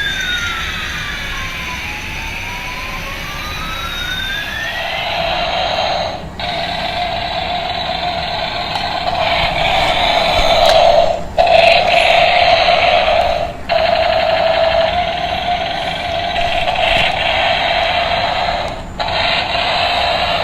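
Electronic siren and sound effects from a toy emergency vehicle. The siren slides down and back up once in the first few seconds. Then comes a steady electronic wail that cuts out and restarts about four times.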